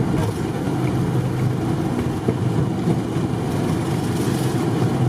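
Steady cabin noise of a Boeing 737 taxiing after landing, its jet engines at idle, heard from inside the passenger cabin: a low hum with a faint thin tone above it.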